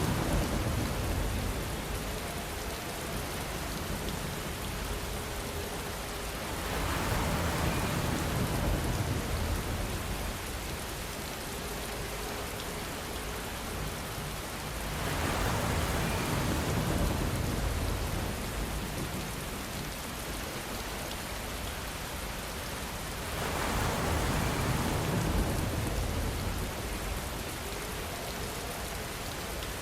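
Steady rainfall hissing evenly, swelling louder for a couple of seconds about every eight seconds.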